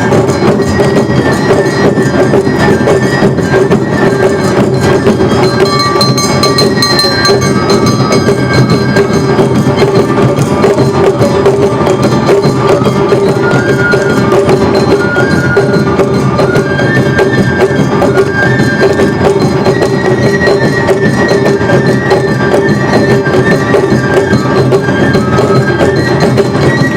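Awa odori festival music played live by a large troupe: a dense, driving beat of drums and clanging kane hand gongs, with a flute melody stepping over the top.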